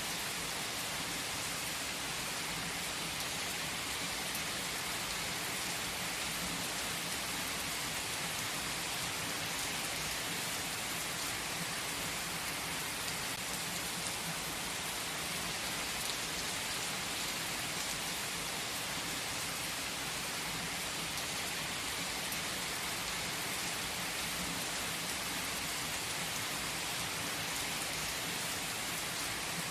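Steady rain ambience: an even, unbroken hiss that is brightest in the upper range, with no music or voice.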